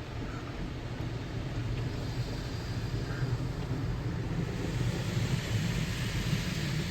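Automatic car wash heard from inside the car: a steady low rumble and hiss of the wash equipment working over the car, the hiss growing louder about four and a half seconds in.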